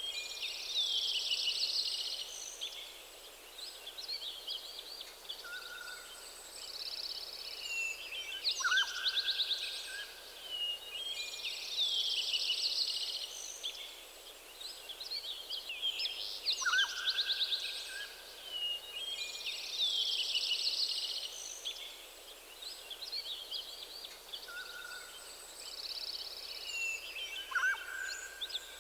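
Several songbirds singing: high, fast trilling and chirping phrases that recur every few seconds, with shorter, lower whistled notes from another bird now and then, over a soft steady hiss.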